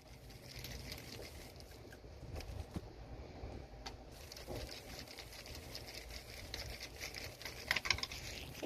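Hands working on parts and tools: light scraping, rustling and small clicks, with a short run of louder clicks near the end.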